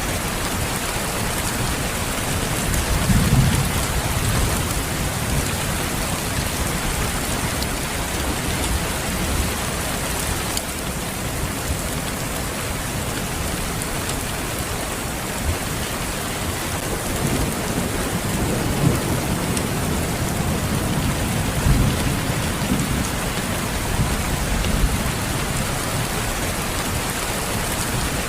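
Steady rain falling, with low rolls of thunder rumbling under it, once a few seconds in and again through the second half.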